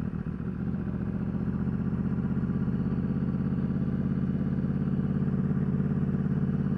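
Yamaha R1 motorcycle's inline-four engine running steadily, heard from the bike itself, getting a little louder over the first couple of seconds and then holding an even pitch.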